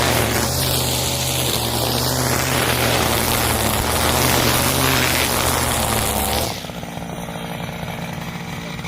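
Husqvarna 541 brushcutter's two-stroke engine running at full throttle with its nylon trimmer line spinning, then dropping suddenly to idle about six and a half seconds in.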